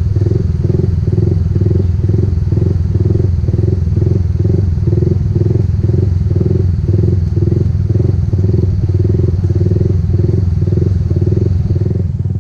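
Motorcycle running steadily with a heavy low rumble and a regular pulsing about two to three times a second.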